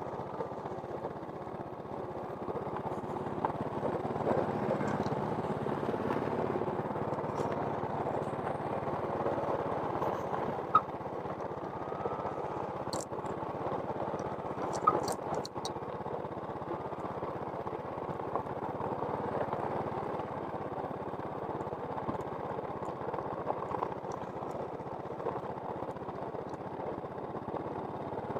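An engine running steadily, with a couple of sharp clicks about a third and halfway through.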